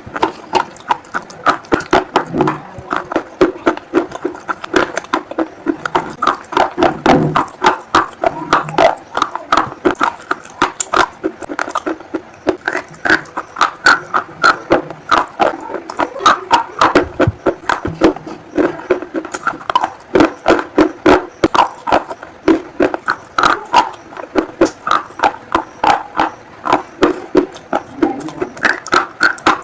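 Close-up crunching and chewing of crisp food, a quick, steady run of crunches about three a second, with wet mouth sounds between them.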